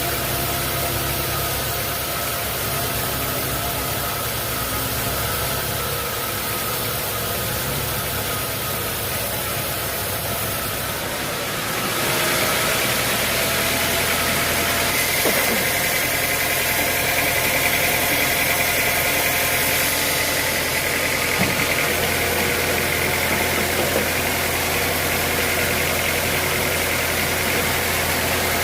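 Sawmill machinery running steadily. About twelve seconds in it grows louder, and a steady high whine joins.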